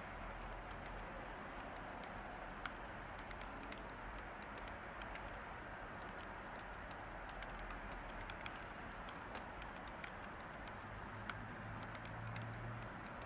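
Light typing on a computer keyboard: scattered, irregular key clicks over a steady hiss of white noise.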